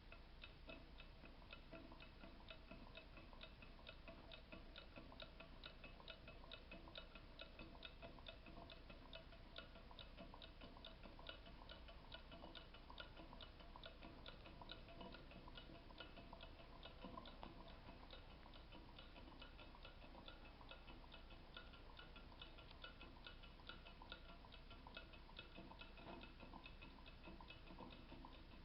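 Small water-cooled, candle-powered Stirling engine fan running steadily, its moving parts making a faint, rapid, even ticking.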